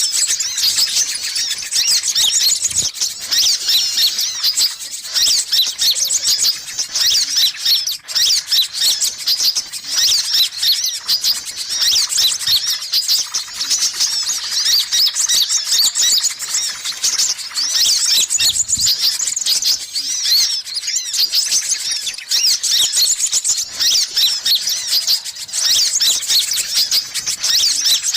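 Sunbirds' rapid, high-pitched chirping and twittering calls, dense and continuous, played as a bird-trapping lure recording.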